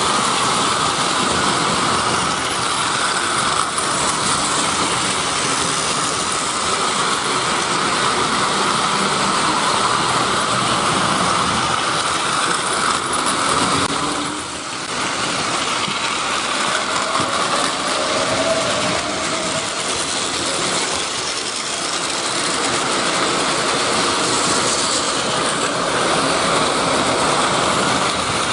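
A train running along the track, with steady rolling noise and a brief dip about halfway.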